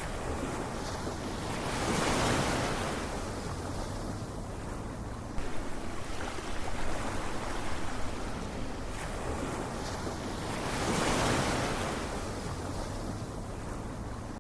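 Ocean waves surging and washing back over steady surf noise, with two big swells that build and fade, about two seconds in and again about eleven seconds in.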